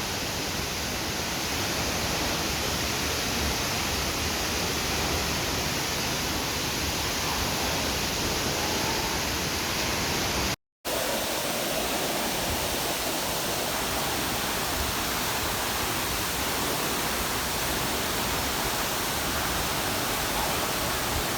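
Waterfall: a steady, full rush of falling water, broken about halfway through by a split-second cut to silence.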